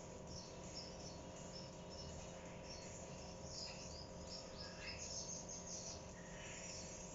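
Faint, irregular high-pitched chirping, many short calls scattered throughout, over a steady low hum.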